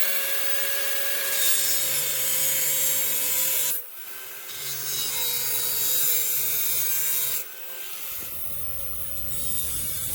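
A power tool runs against material, making a loud rasping, sawing-like noise over a steady motor whine. It breaks off sharply about four seconds in, builds back up over the next two seconds, and drops lower again a little past seven seconds.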